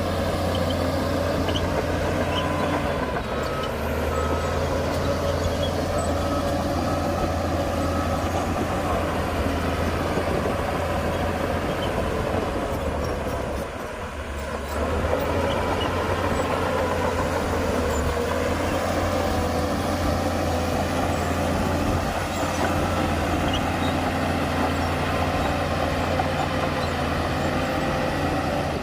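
Heavy diesel earthmoving machinery running steadily under load, easing off briefly about halfway through. A reversing alarm beeps for several seconds a few seconds in.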